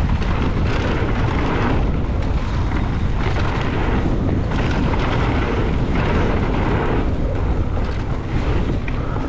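Wind buffeting the microphone as a mountain e-bike rides fast down a trail, a steady, rumbling noise that flutters in level.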